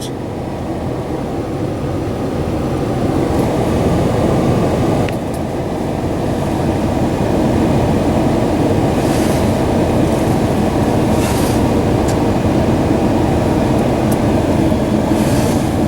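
Steady rumbling road and engine noise inside the cab of a two-wheel-drive 2013 Dodge Ram 1500 with its Hemi V8, driving on a snow- and ice-covered road. The noise grows a little louder over the first few seconds, then holds steady.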